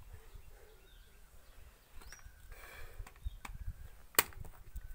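Quiet outdoor ambience with a few short bird chirps. A single sharp click sounds about four seconds in.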